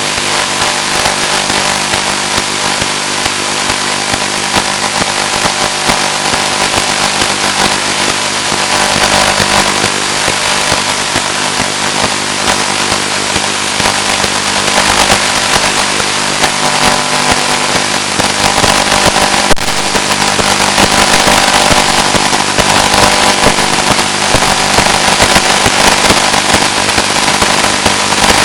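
Steady, loud hiss and buzz on the audio of an analog 1.3 GHz FPV video link, with a constant hum underneath. It grows somewhat louder partway through.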